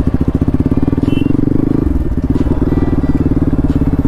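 Bajaj Pulsar NS200's single-cylinder engine running at low speed under the rider, a steady rapid pulse whose note shifts about halfway through.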